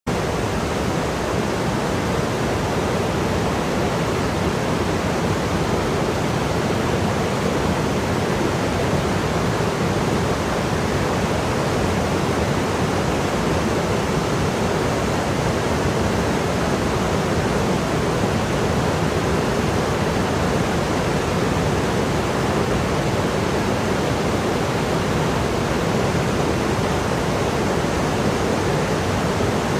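Steady rush of fast-flowing mountain water, a stream or small waterfall, unbroken and even.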